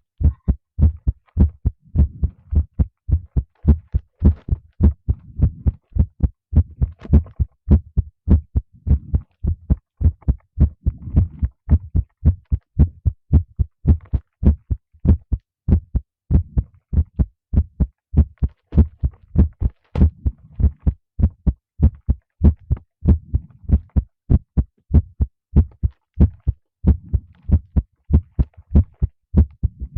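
A human heartbeat: a steady, even run of low thumps.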